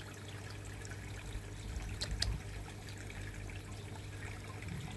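Water trickling steadily into a koi pond from its filters running on full, with two light clicks about two seconds in.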